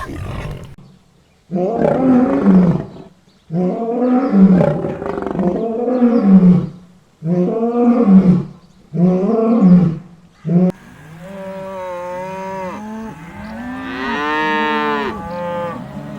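An animal calling loudly over and over: about six harsh calls of roughly a second each, then a few softer calls that slide up and down in pitch.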